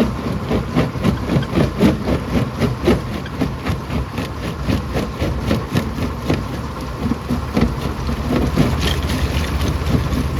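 Rocks clattering and cracking in a stone crusher: a rapid, irregular run of knocks over the crusher machinery's steady drone.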